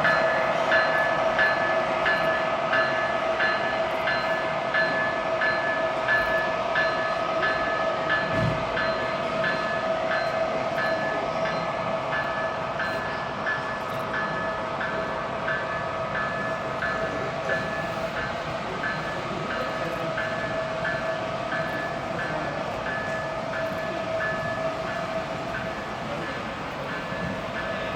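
Model train running on a layout: a steady whine with a regular ringing ping about one and a half times a second, fading slightly. There is a single low thump about eight seconds in.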